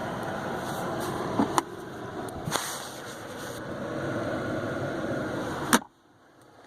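Steady rush of the 2015 Chevy Malibu's air-conditioning blower with the engine idling, broken by a few sharp clicks and knocks. A loud click comes near the end, and then the sound cuts off abruptly.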